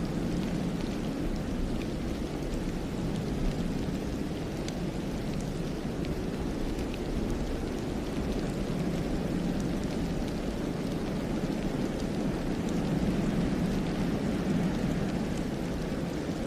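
Wind blowing steadily through a snowy pine forest, a low rushing noise that swells gently twice, with a few faint ticks over it.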